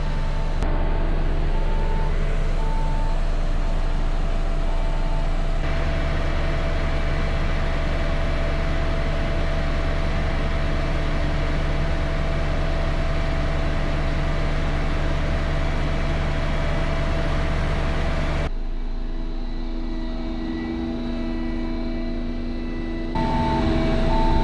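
Tractor engine running steadily while packing silage with a sheepsfoot roller, with a backup alarm beeping in an even rhythm for the first five seconds or so and again near the end. The engine sound changes abruptly a few times, growing quieter for several seconds before the end.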